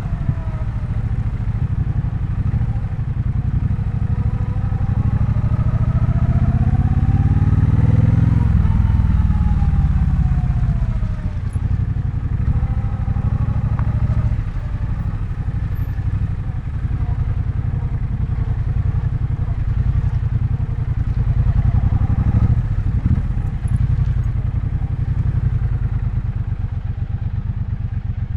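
Triumph Bonneville Bobber's 1200 cc parallel-twin engine running under way, pulling up through the revs for the first eight seconds or so and then easing off, with a shorter rise again near the end.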